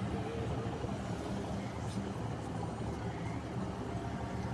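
A boat's engine running with a steady low drone under a constant wash of noise.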